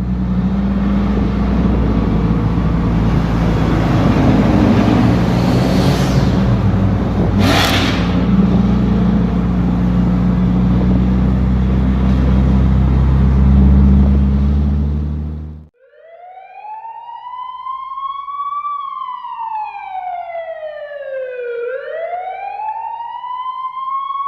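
A car engine running steadily, with a brief hiss about halfway through, cuts off abruptly after about sixteen seconds. It is followed by a police siren wailing, its pitch rising and falling slowly.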